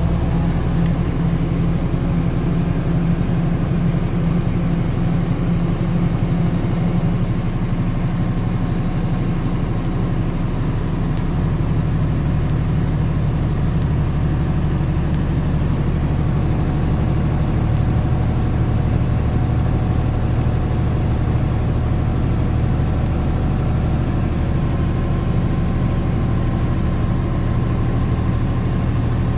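Steady vehicle engine and road noise, a continuous low drone that shifts slightly in pitch a few times.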